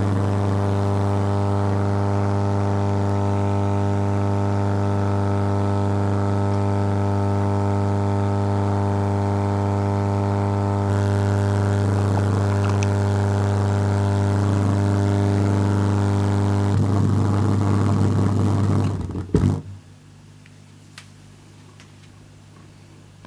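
Loud, steady electrical hum with a stack of overtones: the fault hum of an Audio-Technica AT-LP1240 turntable setup. About nineteen seconds in it breaks off with a couple of sharp pops and drops to a much fainter hum.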